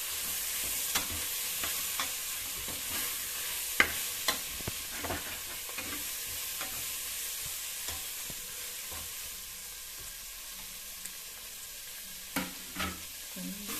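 Onions and tomatoes sizzling in hot oil in an aluminium pressure cooker while a spatula stirs them, scraping and clinking against the pot. The sizzle is steady and eases off a little in the second half; the clinks are irregular, with a sharp one about four seconds in.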